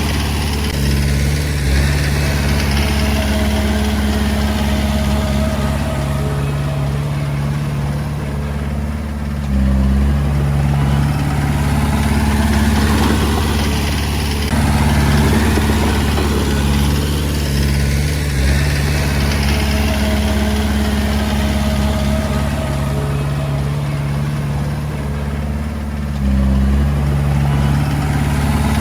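Komatsu D20A bulldozer's diesel engine running steadily as it works, with a brief rise in loudness about ten seconds in and again near the end.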